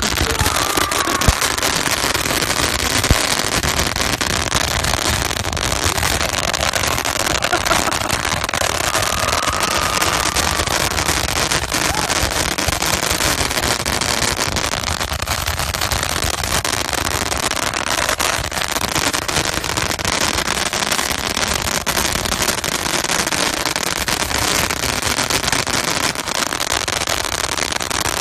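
Fireworks going off without pause: handheld tube fireworks spraying jets of sparks and firecrackers, a dense continuous crackling and popping, with a faint short whistle now and then.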